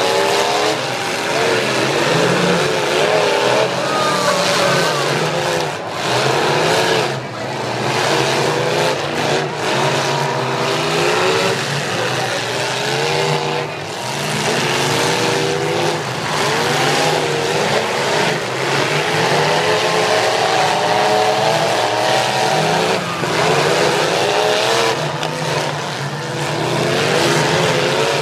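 Several demolition derby cars racing around a figure-8 track, their engines revving up and down and overlapping without a break.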